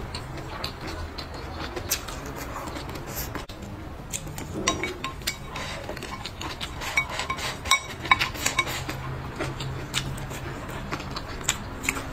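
Eating noises: chewing, with many sharp clicks and clinks of utensils against dishes, busiest in the second half.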